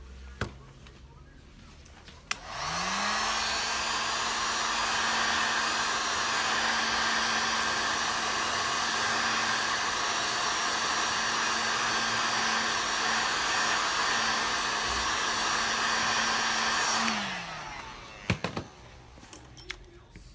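A hot-air blower switched on with a click a couple of seconds in. Its motor spins up and then runs steadily with a loud rush of air and a steady hum. It is switched off near the end and winds down, followed by a few clicks.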